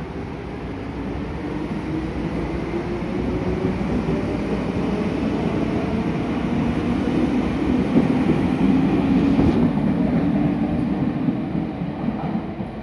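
Meitetsu 6500 series electric train pulling out of an underground station: its motor hum rises slightly in pitch as the running noise grows louder, then fades as the train goes off into the tunnel near the end.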